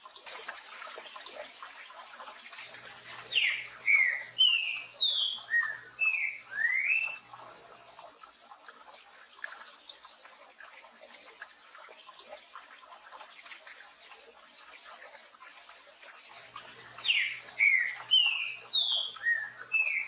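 Green-winged saltator (trinca-ferro) singing twice, a few seconds in and again near the end. Each song is a run of about eight short slurred whistles. Steady rain hiss runs underneath.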